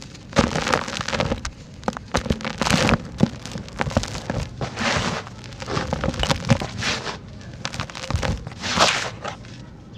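Dry, dusty sand-cement chunks being crumbled, with gritty crunching and crackling. It comes in repeated bouts of crushing, with sharp snaps and grainy trickling in between.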